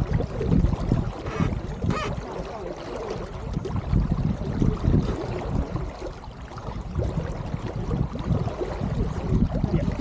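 Water rushing and sloshing along the hull of an Elliott 7.4 sailing keelboat under way, with gusty wind rumble on the microphone. There are two brief splashes or knocks about a second and a half and two seconds in.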